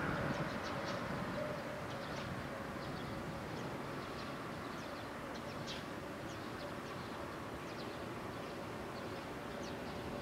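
Steady hum and rumble of an electric train approaching along the line, with short high bird chirps scattered throughout.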